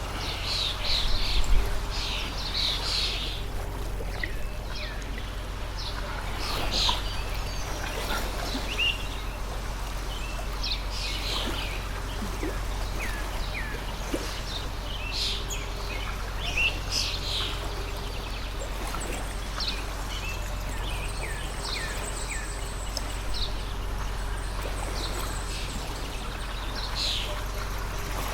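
Small birds chirping repeatedly, short calls and quick falling whistles, over the steady rush of a flowing stream. There is a brief low bump about a second and a half in.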